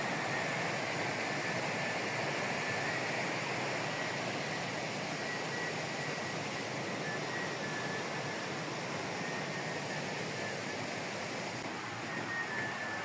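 Rushing water of a mountain stream, a steady even hiss, with a thin high steady tone running through it.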